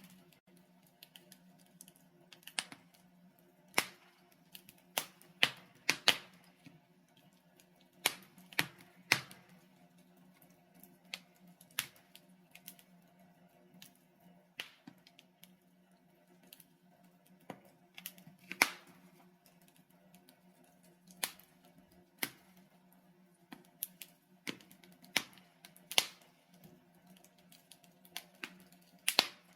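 Burning logs in a fireplace crackling and popping: irregular sharp snaps, a few loud, over a faint steady low hum.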